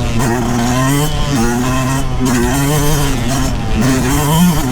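2023 Yamaha YZ125's two-stroke single-cylinder engine running under riding load, its pitch rising and falling several times as the throttle is worked on and off.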